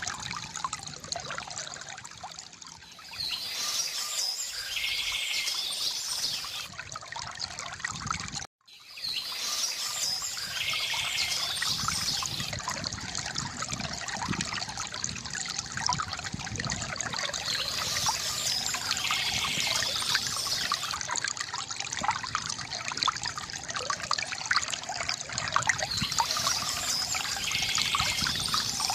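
Stream water trickling and splashing steadily, with a bird's song rising above it four times, about every eight seconds. The sound cuts out for a split second about eight seconds in.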